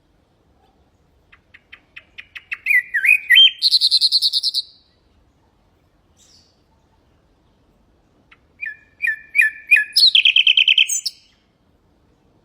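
Common nightingale singing two song phrases, a few seconds apart. Each phrase opens with a series of quickening sharp notes and ends in a loud, rapid high trill.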